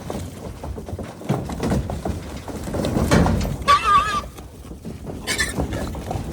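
Feral hogs grunting and shuffling, with one loud, wavering squeal a little past the middle and a shorter, higher squeal about a second later.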